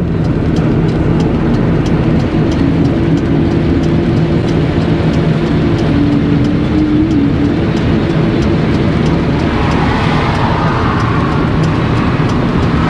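Car engine and road noise heard from inside the cabin while driving: a steady drone whose pitch shifts slightly about six or seven seconds in, with a rushing noise swelling near the end.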